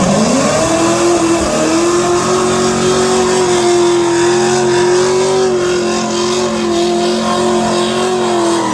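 Racing car engine held at steady high revs for several seconds after a quick dip in pitch at the start, with a hiss of tyre noise beneath; the pitch falls away near the end.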